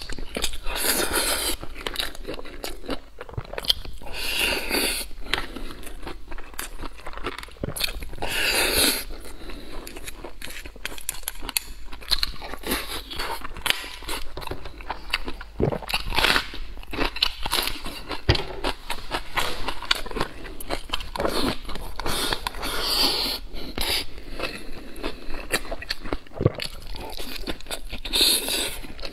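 Close-miked eating: a man biting and chewing braised pork belly and rice, the mouth sounds swelling every few seconds, with short sharp clicks between.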